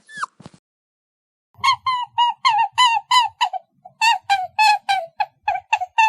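A bird calling in a quick series of short, clipped notes, about four a second, with a brief break near the middle. A single short falling call comes right at the start.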